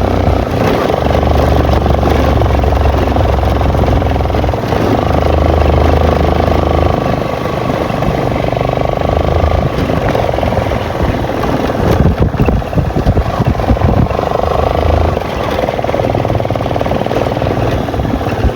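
Motorcycle engine running steadily while riding, with wind rushing over the microphone; the sound turns rough and jolting for a couple of seconds about twelve seconds in.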